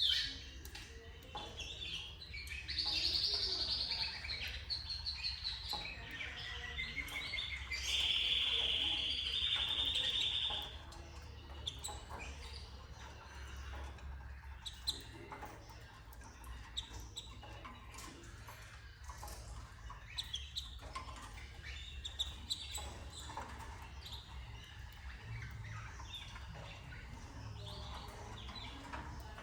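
Canary singing: two loud trilled phrases in the first half, then softer chirps and small clicks, over a steady low hum.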